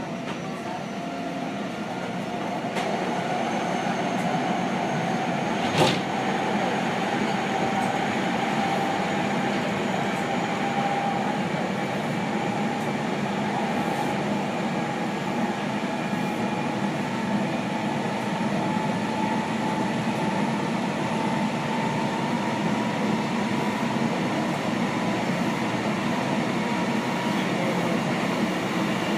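Seibu 6000 series electric train heard from inside the car, running on its Hitachi GTO-VVVF inverter and traction motors. The inverter and motor whine rises slowly in pitch as the train picks up speed, over a steady rumble of wheels. There is one sharp knock about six seconds in.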